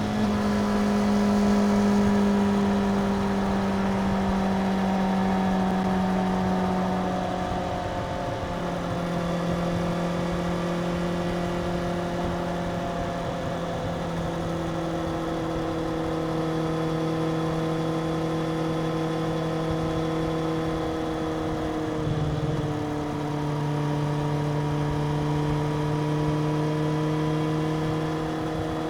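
Suzuki GSX-R750 inline-four engine running at steady, fairly high revs. The pitch sags slowly, with small drops about 8 and 22 seconds in.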